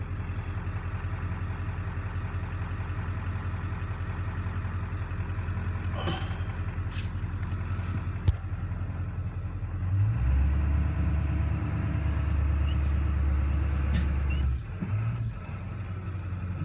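Car engine idling steadily, heard from inside the cabin, with a louder, deeper drone for about four seconds from around ten seconds in, and a couple of light clicks.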